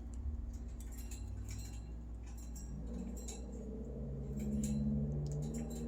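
Light, irregular clicks and taps of budgies pecking at seed in their food dish, over a steady low hum.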